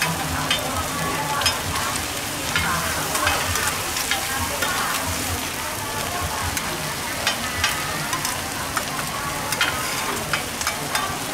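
Oysters and eggs sizzling in hot oil on a large round flat griddle pan for oyster omelette, a steady frying hiss. Scattered clicks and scrapes from the metal ladle and spatula against the pan.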